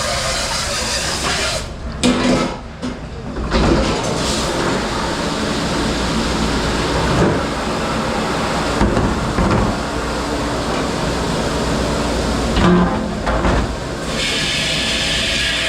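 Dish room at work: a steady hiss of a commercial dish machine or spraying water, with occasional clattering knocks of dishware.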